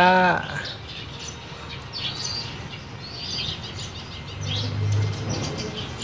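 Small birds chirping faintly in short calls outdoors. A low hum swells and fades about five seconds in.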